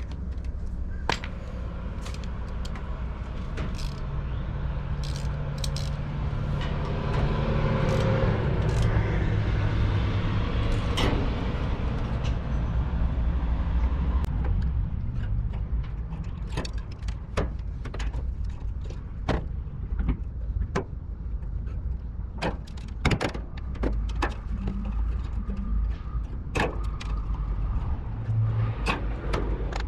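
Low steady rumble of a vehicle, with many sharp clicks and knocks scattered through it and a humming drone in the middle stretch.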